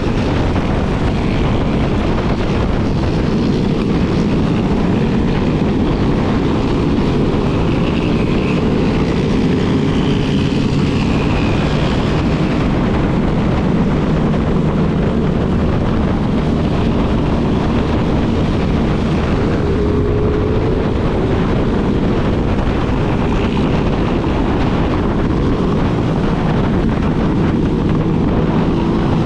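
Yamaha Lander 250 single-cylinder engine running steadily under way, with heavy wind noise on the microphone.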